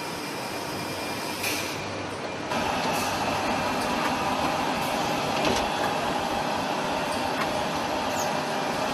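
Steady machinery noise of an engine production line, with a few sharp clicks. It gets louder about two and a half seconds in.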